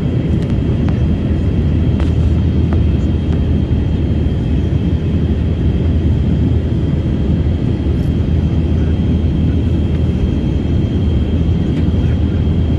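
Steady passenger-aircraft cabin noise heard from inside the cabin: a constant low rumble of engines and airflow, with a thin steady high whine above it and a few faint clicks.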